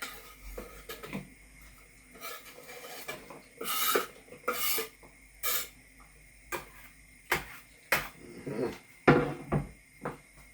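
Kitchen utensils and dishes being handled: scattered clicks and knocks, with a few short scraping sounds around the middle and again near the end.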